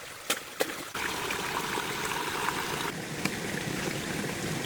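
Running water, a steady trickling flow that starts about a second in, with two short clicks just before it.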